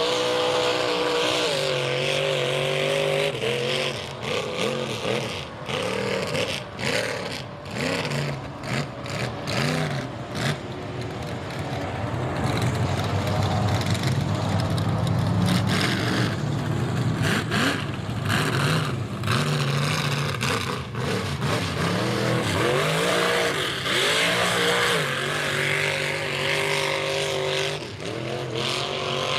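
High-horsepower mega mud truck engine on open headers, revving up and down repeatedly, loudest in a long hard-running stretch through the middle.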